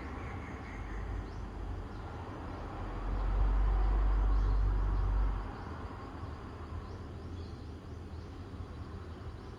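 Outdoor morning ambience: a steady rushing hiss with faint, thin bird chirps high above it. A deep low rumble swells up for about two seconds in the middle and then drops away.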